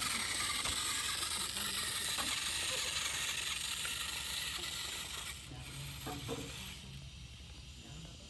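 Mahindra 555 diesel tractor running with a steady mechanical rattle and low rumble. A loud hiss lies over it for about the first five seconds, then drops away, leaving a quieter low hum.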